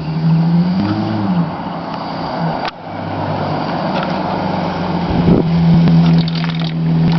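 1999 Chrysler 300M's 3.5-litre V6 running through a Flowmaster exhaust, with one quick rev that rises and falls about a second in, then a steady exhaust note.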